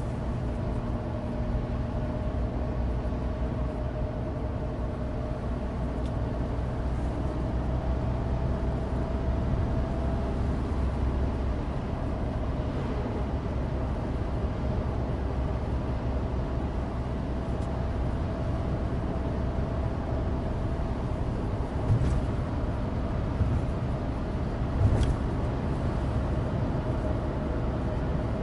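Suzuki Alto Turbo RS's 660 cc turbocharged three-cylinder engine running steadily with tyre and road rumble, heard inside the car's cabin. Two brief thumps come about three seconds apart in the last third.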